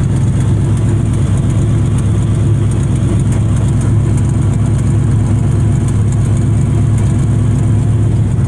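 Older carbureted truck engine idling steadily at an even speed, tuned to run a touch rich.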